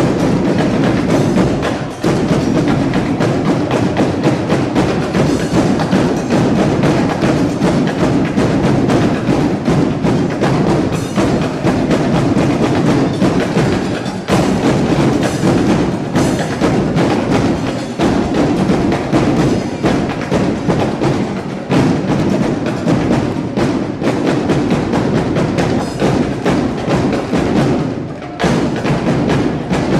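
Loud percussion music with a dense, driving beat of sharp strikes, briefly dropping out around two seconds in and again near the end.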